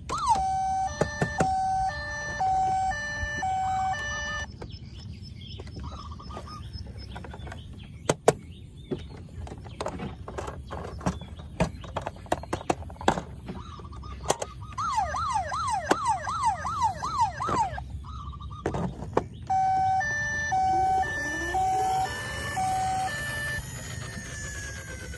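Electronic siren sounds from a battery-powered toy vehicle: a stepped two-tone beeping pattern, then a fast wailing siren sweeping up about three times a second, then the two-tone beeping again. Sharp plastic clicks and knocks come in between.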